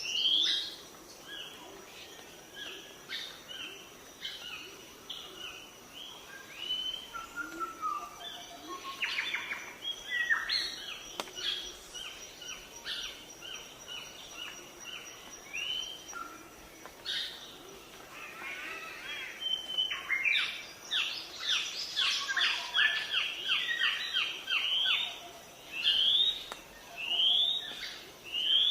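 Songbirds chirping and calling: many short chirps and quick rising whistled notes, busiest in the second half. A faint steady high tone runs under the first half.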